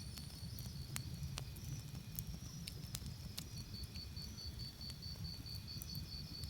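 Campfire crackling, with scattered sharp pops over a low rumble, and crickets chirping in a steady pulsed trill that fades and comes back strongly about halfway through.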